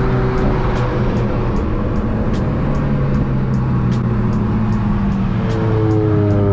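Car engine running steadily while driving, its pitch easing down slowly near the end. A faint regular ticking sits high above it, about twice a second.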